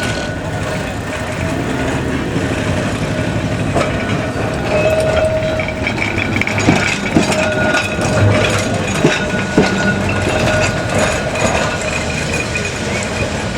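Heritage electric tram running along the track, with a steady whine and a few sharp clicks and knocks in the middle.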